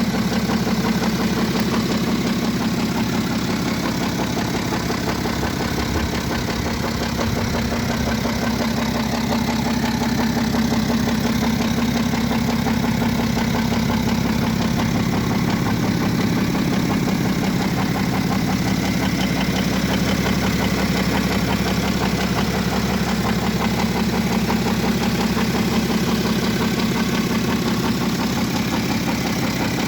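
BMW 535d GT's straight-six diesel idling steadily with a continuous rattling clatter, the sign of internal engine damage.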